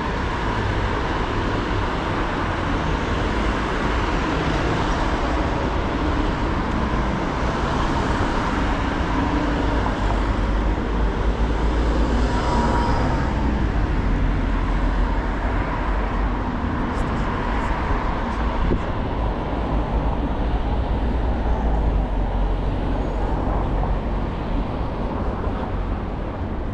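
Steady, loud rumble of a moving road vehicle and traffic, heavy in the low end, swelling a little around the middle and easing slightly near the end.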